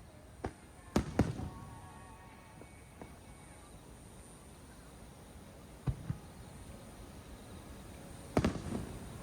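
Aerial firework shells bursting: a string of sharp bangs with a low rolling echo after each, a double bang about a second in, another pair about six seconds in, and a loud bang near the end.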